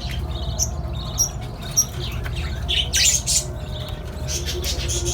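Small caged parrots chirping and squawking in rapid short calls, with a louder harsh squawk about three seconds in, over a steady low hum.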